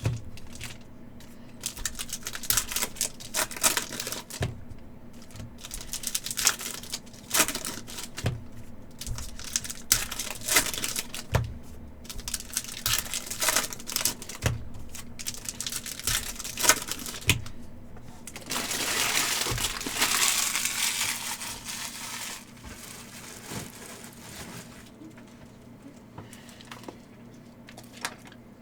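Trading-card pack wrappers crinkling and cards being handled, with many quick clicks and rustles as packs are opened and cards flicked through. A longer continuous rustle, such as a wrapper being torn open, comes about two-thirds of the way in, and the handling is softer near the end.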